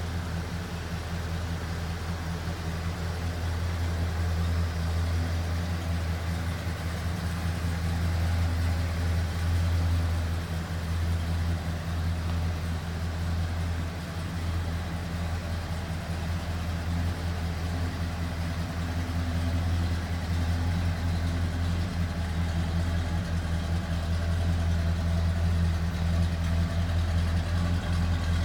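1986 Ford F-250 pickup engine idling steadily.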